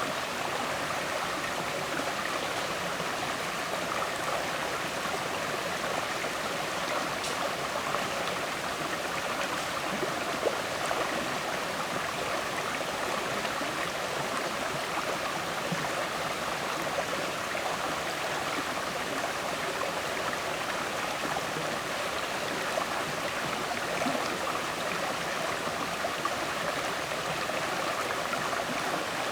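River water flowing and gurgling over stones, a steady rushing with small splashes and burbles throughout.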